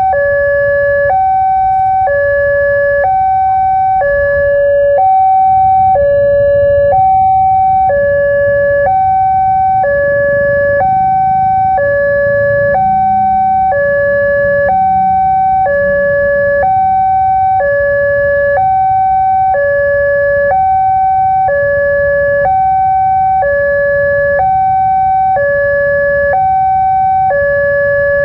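Railway level-crossing electronic warning alarm sounding a steady two-tone hi-lo pattern, the two pitches swapping about every half second, signalling that a train is approaching and the barrier is down.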